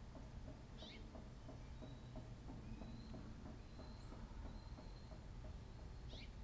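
Faint birdsong: two quick downward-sweeping chirps, about a second in and near the end, with thin high whistled notes between them, over a low outdoor rumble.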